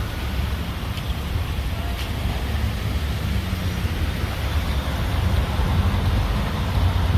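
A vehicle engine idling with a steady low rumble, and a couple of faint clicks about one and two seconds in.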